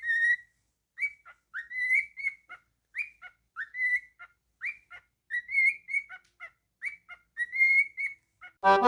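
Cockatiel whistling a string of short phrases, mostly rising notes at about the same pitch, with brief gaps between them. Loud music starts right at the end.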